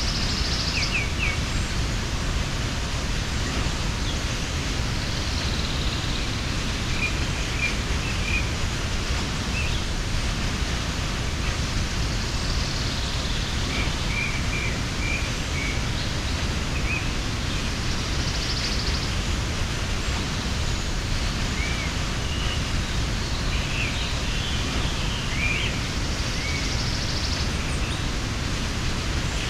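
Steady rushing of a mountain waterfall, with small birds chirping in short scattered calls over it.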